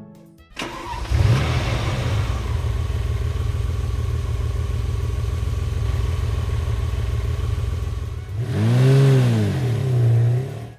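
Vehicle engine sound effect: starts about half a second in and runs steadily, then revs up and down twice near the end before cutting off.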